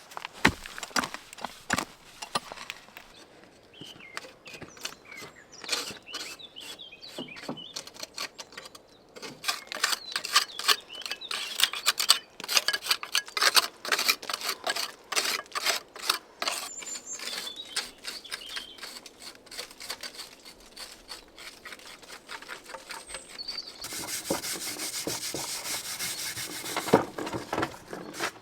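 Quick, irregular scraping and rubbing strokes of a hand tool, with a denser scratchy stretch near the end and a few faint bird chirps.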